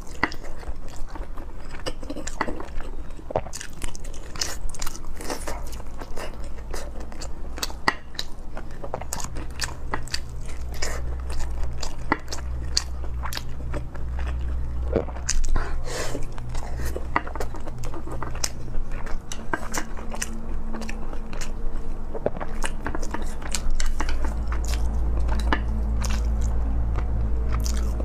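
Close-miked chewing and wet mouth sounds of someone eating soft braised pork belly with rice, full of quick small clicks and smacks, over a low hum.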